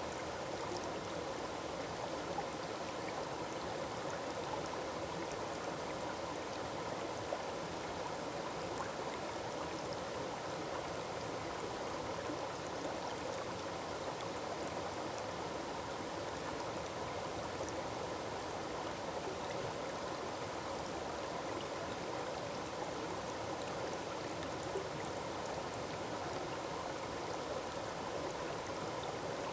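Small forest waterfall splashing into a stream, a steady, even rush of falling water.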